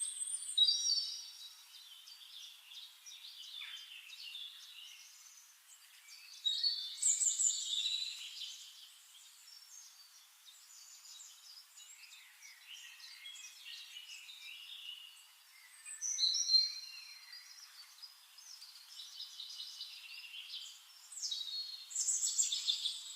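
Small birds chirping in bouts of quick, high, shifting calls: at the start, about seven seconds in, about sixteen seconds in and near the end, with a faint high hiss in the quieter gaps.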